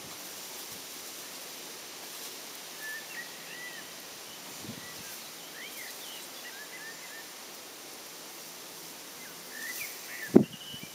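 Garden ambience: small birds chirping now and then over a steady outdoor hiss. A single short, sharp knock about ten seconds in is the loudest sound.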